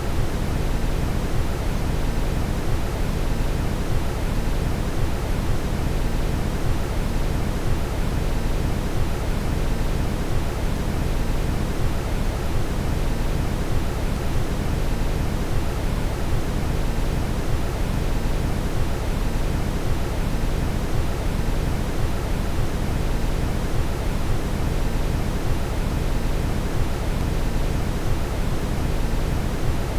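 Steady brown noise: an even, unbroken hiss weighted heavily toward the low end, with no change in level.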